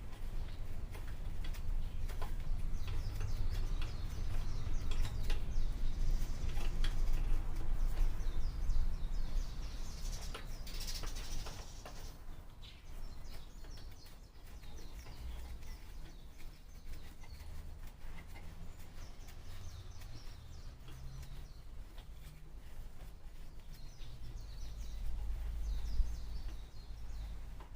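Birds chirping over a steady low rumble, with a few faint clicks.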